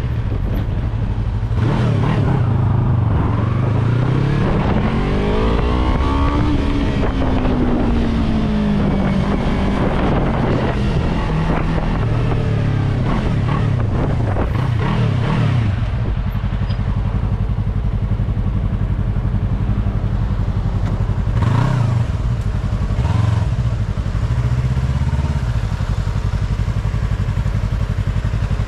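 Yamaha R3 parallel-twin motorcycle engine heard from on the bike while riding, revving up and down through the gears, then running steadily with two short blips of the throttle later on. Wind rushes over the microphone throughout.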